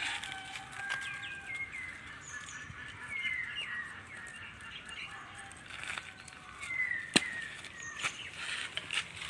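Birds chirping and calling, with short sliding calls throughout. A single sharp click about seven seconds in stands out above them.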